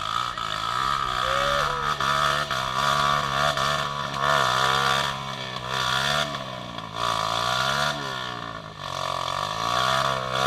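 Off-road vehicle engine revving up and down over and over, its pitch rising and falling repeatedly.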